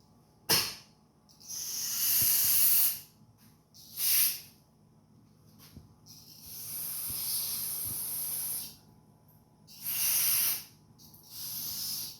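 Aerosol carburetor cleaner sprayed in repeated hissing bursts, some short and some held for two seconds or more, flushing a small engine's carburetor passages clear of a clog.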